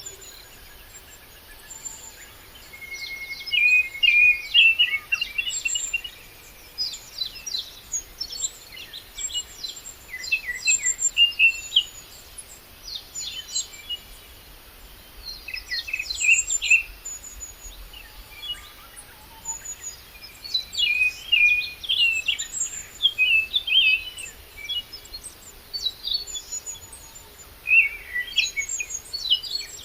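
Birds chirping and singing in repeated bursts of quick notes a few seconds apart, over a faint steady outdoor background.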